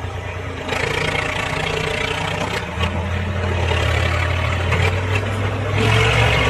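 An engine running steadily, growing a little louder and fuller near the end.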